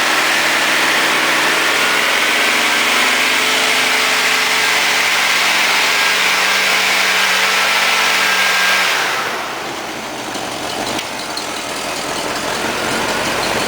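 1979 Oldsmobile 350 (5.7 L) V8 running steadily through Flowmaster mufflers. About nine seconds in the sound turns quieter and duller.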